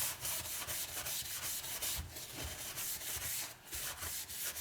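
Paper towel wiped briskly back and forth across a Spyderco medium aluminium-oxide bench stone, a scratchy hiss in quick repeated strokes. The wiping lifts the metal swarf and abrasive particles that have loaded the stone.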